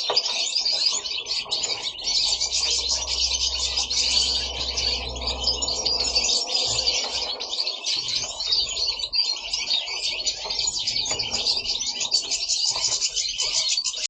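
Pet European goldfinches singing: a continuous, rapid high-pitched twittering song without pauses.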